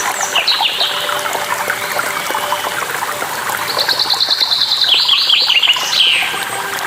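Songbirds singing over a steady rush of falling water, with a fast trill of repeated high notes about four seconds in.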